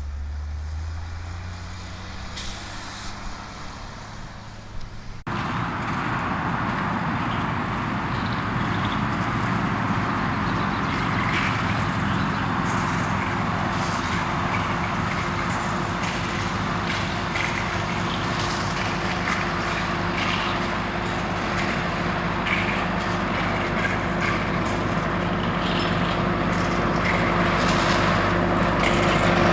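A heavy vehicle engine running steadily. About five seconds in it cuts abruptly to a louder, steady machine noise with a constant hum.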